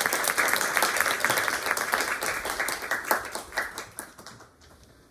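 Audience applauding, thinning out and dying away over the last second or two, with a few last scattered claps.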